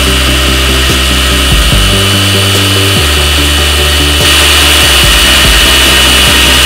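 An electric power tool runs steadily with a high, even whine that grows louder about four seconds in, over background music.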